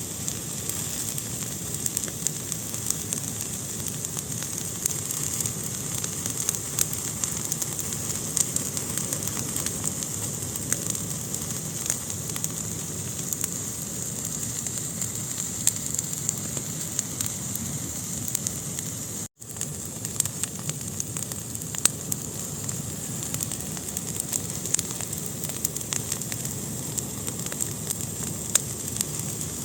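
Wood fire burning in a fireplace: a steady hiss with frequent small crackles and pops. The sound cuts out for an instant about two-thirds of the way through.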